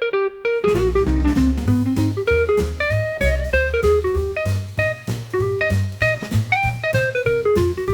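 Instrumental blues music: a guitar plays a melodic lead line over bass and drum kit. The bass and drums drop out briefly at the start and come back in about half a second in.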